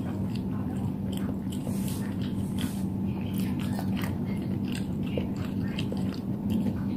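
Close-miked chewing of a mouthful of spicy Mie Kober noodles, with many small wet mouth clicks, over a steady low hum.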